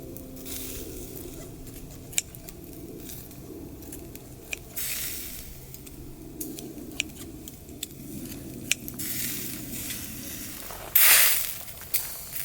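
Camp cooking: a low, steady sizzle with a few sharp clicks of utensils, and a short, loud hiss about eleven seconds in.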